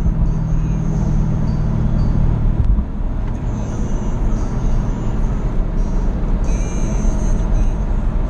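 2017 Jaguar F-Type SVR's supercharged V8 running at speed, with tyre and road noise; a steady engine drone for the first few seconds that turns rougher about three seconds in.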